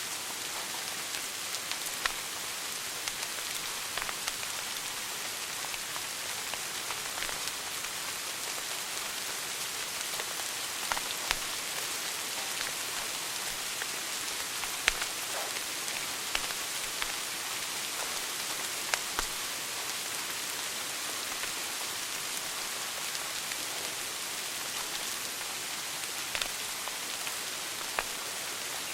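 Wood fire burning in a fireplace: a steady crackling hiss with scattered sharp pops, the loudest about halfway through.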